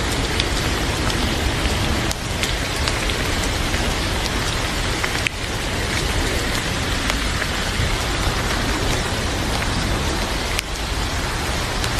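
Heavy rain falling steadily, with scattered sharp ticks through it.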